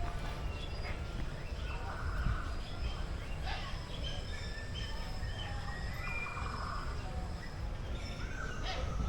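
Several birds chirping and whistling, short calls overlapping throughout, with a longer rising whistle near the end, over a steady low rumble.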